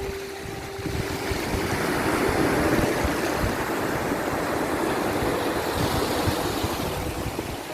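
Sea waves washing in, a steady rush of surf that swells about two seconds in and slowly eases off, with a few faint held soft tones underneath.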